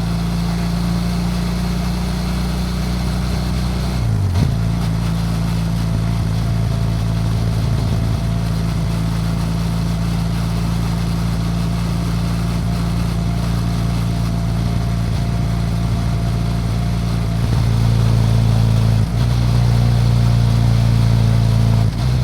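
BMW F800GS Adventure's parallel-twin engine running at steady revs while riding, over a bed of wind and road noise. There is a brief break in the engine note about four seconds in, and it gets louder from about eighteen seconds in.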